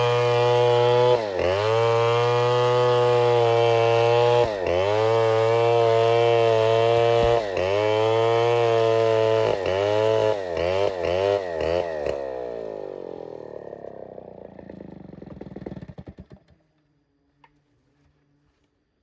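Chainsaw engine running at high revs, dipping briefly three times, then a few quick throttle blips before it is shut off and winds down to a stop with falling pitch.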